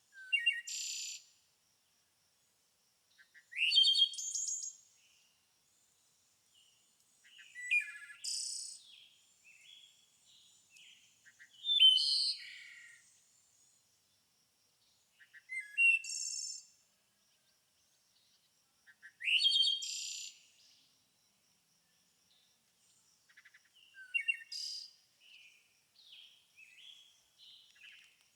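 A songbird singing short, complex phrases, each about a second long, repeated roughly every four seconds, seven times in all. Some phrases open with a quick rising sweep.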